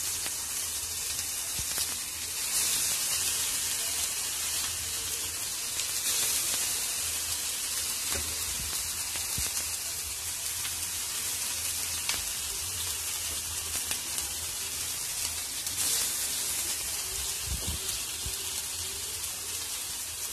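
Chicken shami kebab patties shallow-frying in hot oil on a flat tawa pan: a steady sizzle that swells several times as more patties are laid into the oil.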